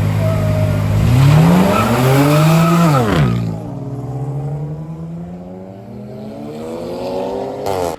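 Car engine launching off the line in a drag race: a steady held rev, then pitch rising hard for about two seconds, a sudden drop at a gear change about three seconds in, and a slower climb through the next gear as the sound fades a little. It cuts off suddenly near the end.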